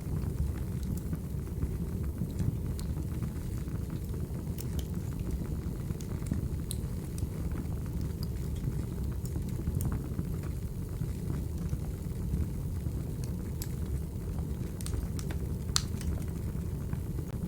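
Crackling wood fire: a steady low rumble of burning logs with scattered sharp crackles and pops.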